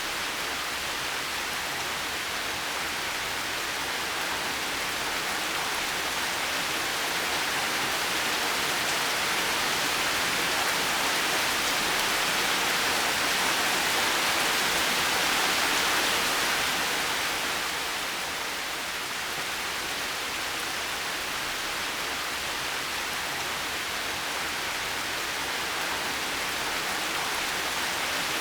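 Heavy rain falling steadily, a dense even hiss that swells a little in the middle and then eases.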